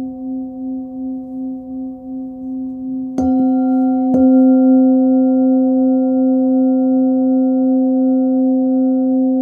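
A 16.3 cm Nepalese singing bowl tuned to about 262 Hz (C) rings with a wavering, pulsing hum. It is then struck twice, about a second apart, a little over three seconds in, and rings on louder and steady with its overtones.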